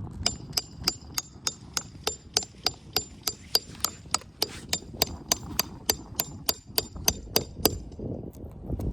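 A hammer striking in a steady rhythm, about three blows a second, with a metallic ring on each blow, typical of hand-nailing roofing shingles. The blows stop near the end.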